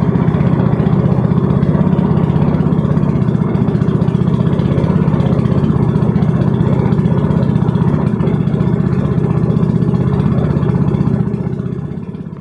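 Speedboat's outboard motor running steadily at speed, a dense, even engine note; it fades away near the end.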